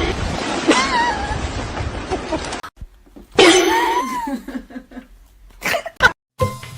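A cat meowing twice: short calls that waver in pitch, one about a second in and a longer one near the middle, over background noise that cuts out partway through. A few short clicks near the end.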